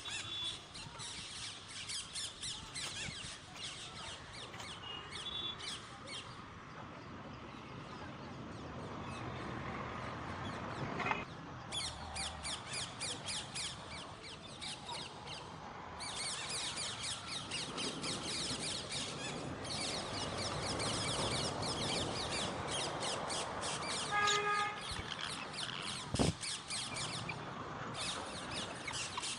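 Parrots chattering in long runs of rapid, repeated high chirps, with one short pitched squawk late on and a single thump shortly after.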